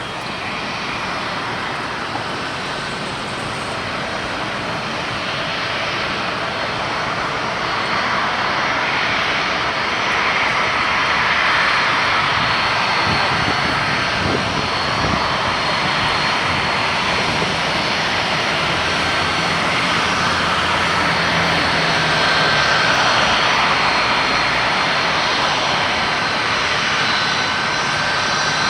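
Jet airliner engines: a steady, broad rushing noise with faint steady whining tones, slowly growing louder.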